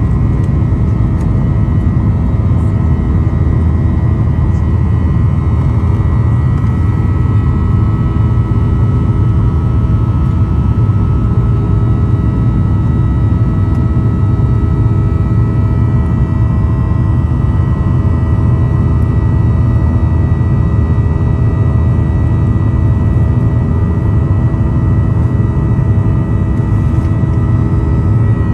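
Boeing 737-800's CFM56 jet engines running at a steady setting: a loud, even rumble with steady high whining tones over it.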